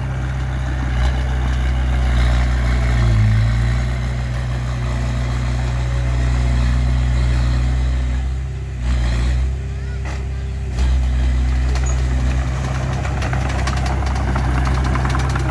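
Bulldozer's diesel engine running steadily with a deep hum. It drops away about eight and a half seconds in, then comes back strongly about two seconds later.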